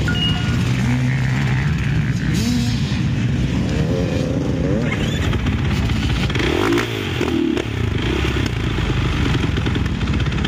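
Motocross bike engines running loudly, with the pitch rising and falling as they are revved in the middle stretch.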